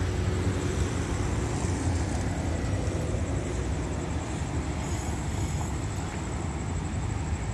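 Steady low rumble of a diesel-hauled express train pulling away from the station, heard from the platform.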